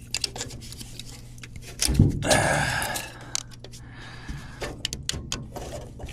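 Aluminium coil fins being pried and pulled off copper tubing by hand: scattered metallic clicks, a knock about two seconds in, then about a second of scraping metal, over a low steady hum.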